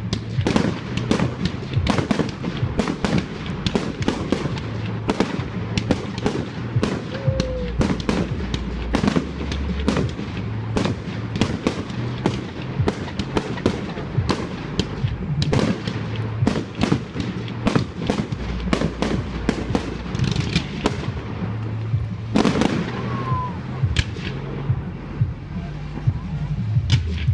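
Fireworks going off in a dense run of sharp bangs and crackles, several a second, with no real pause.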